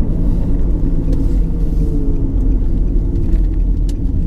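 Car engine and road rumble heard from inside a moving car, steady, with the engine's pitch drifting slightly lower partway through.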